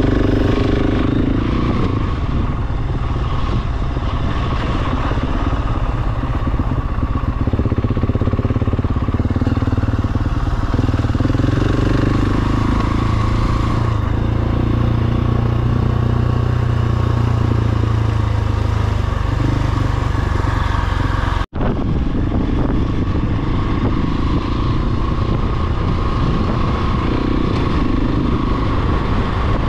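Large single-cylinder dual-sport motorcycle engine running steadily while riding, the sound cutting out for an instant about twenty-one seconds in.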